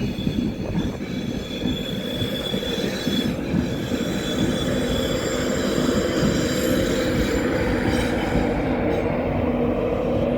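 A train running along the platform: a loud, steady rail rumble with a thin high squeal of wheels on the rails in the first few seconds, and a steady low hum that grows stronger in the second half.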